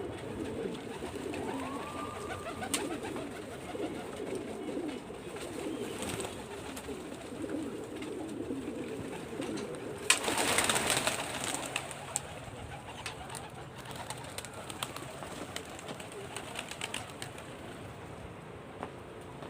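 Domestic pigeons cooing, a low steady chorus through the first half. About halfway a short, loud rustling burst stands out, followed by scattered faint clicks.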